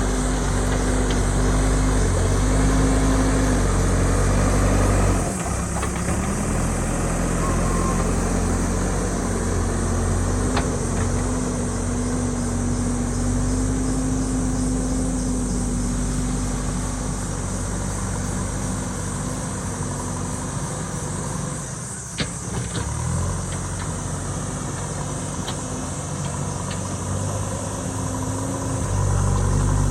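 JCB backhoe loader's diesel engine running while working, its note dropping about five seconds in and picking up again near the end, with a single sharp knock about two-thirds of the way through.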